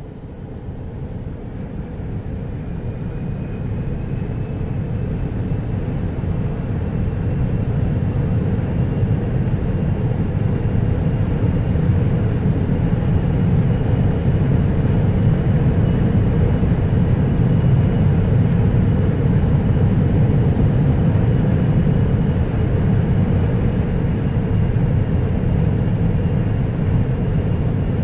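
Boeing 747 jet engine noise: a heavy, steady rumble with a faint high whine above it, growing louder over the first ten seconds or so and then holding steady.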